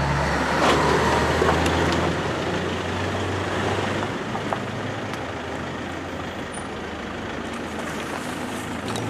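A motor vehicle engine running with a steady low hum and road noise, loudest in the first couple of seconds and then easing off.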